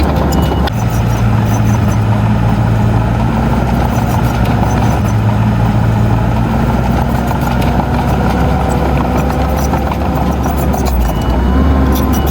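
Heavy diesel earthmoving machine engine running steadily, its note stepping up about a second in and dropping back near the end, with faint scattered ticks and clanks.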